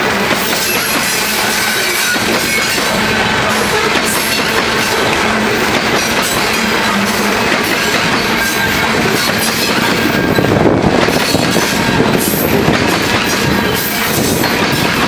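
Loaded coal hopper cars of a freight train rolling past at speed: a steady loud rumble and clatter of steel wheels on the rails, a little louder about two-thirds of the way through.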